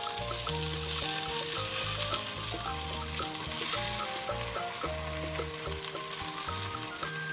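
Floured chicken pieces sizzling in hot oil in a skillet as they are lifted out with tongs, over background music.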